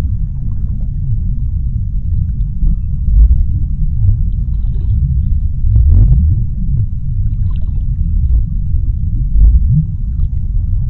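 Underwater deep-sea ambience: a continuous low rumble with low tones sliding up and down through it and faint scattered crackles.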